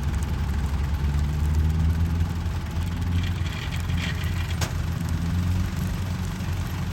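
Kubota 105 cabin combine harvester's diesel engine running steadily, with a brief higher rattle a little past the middle and a single sharp click.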